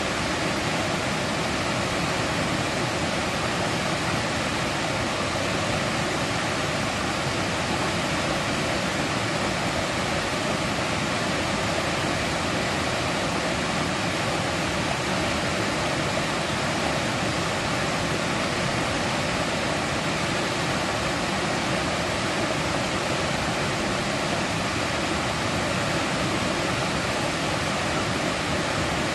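Mountain valley stream rushing over rocks: a steady, even wash of flowing water.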